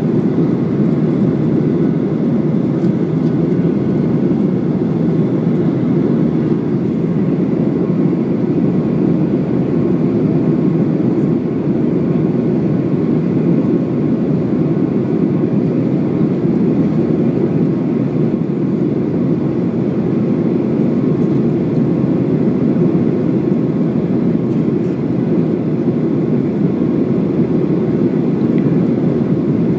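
Steady, even cabin noise of a Boeing 737 airliner in flight: engine and airflow noise heard from inside the passenger cabin, with no change in pitch or level.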